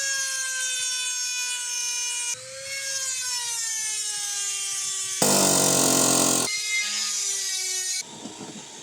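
Electric grinder whining at high speed on metal, its pitch sagging slowly as it is pressed into the cut, with a harsher burst of grinding noise about five seconds in.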